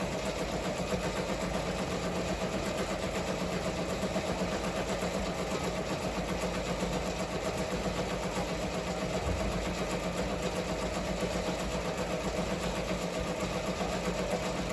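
Ricoma MT-1501 15-needle embroidery machine running steadily, stitching a design with a fast, even mechanical beat.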